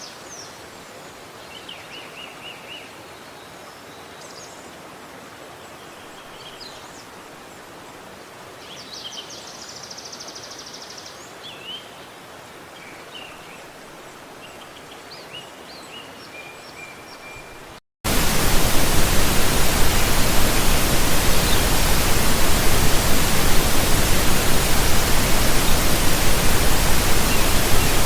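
Quiet forest ambience with small birds chirping and whistling, including a fast trill about ten seconds in. About eighteen seconds in it cuts abruptly to a loud, steady rush of running water that is much louder than the birds and carries on.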